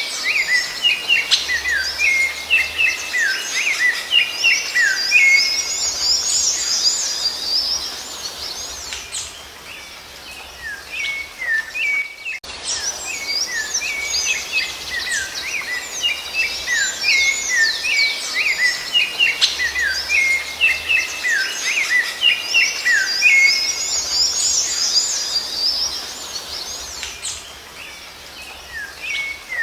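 Rufous-bellied thrush (sabiá-laranjeira) singing: a dense run of quick whistled notes and sweeping phrases. There is a short break about twelve seconds in, after which the same passage of song repeats.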